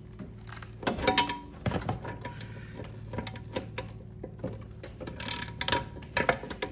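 Metal clicks and clanks of a wrench working the mower's blade bolt loose, with the loudest knocks about a second in and again near the end, over a steady low hum.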